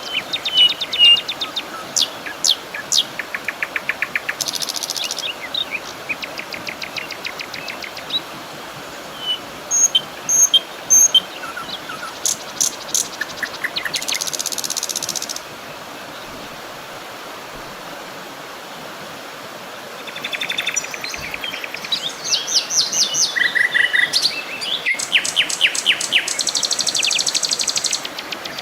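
Several songbirds singing and calling: quick chirps, rapid trills and buzzy rattling notes, with a lull of a few seconds in the middle. Under them runs the steady rush of a stream.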